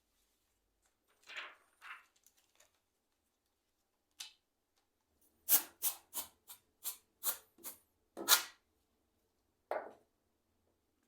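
Plastic parts of an ICL membrane keyboard clicking and snapping as they are fitted together during reassembly. There are a couple of soft scrapes about a second in, then a quick run of about eight sharp clicks, and one last click near the end.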